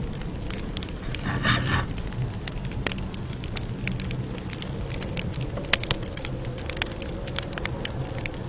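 Campfire crackling: a steady low rumble with frequent sharp pops and snaps, and a brief louder hiss about a second and a half in.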